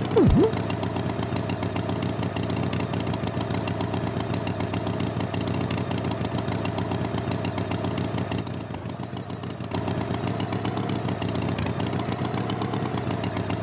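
Tractor engine running steadily with a fast, even chug. Just after the start there is a brief loud sound that falls steeply in pitch, and the engine sound drops a little for a moment about two-thirds of the way through.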